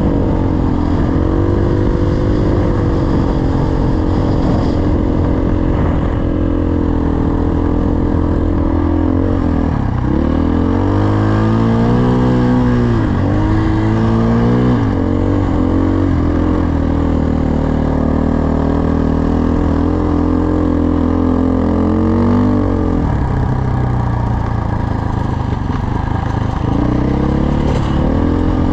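Dirt bike engine running under way, its revs rising and falling with throttle and gear changes. The engine note dips and climbs again around 10 and 13 seconds in, holds steady for a while, then drops off a little before two-thirds through and picks up again near the end.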